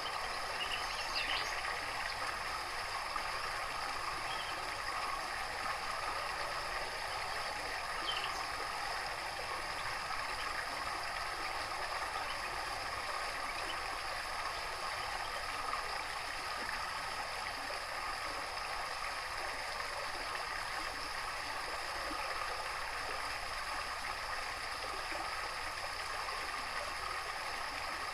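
Running water trickling and gurgling steadily, with a few faint bird chirps about a second in and again about eight seconds in.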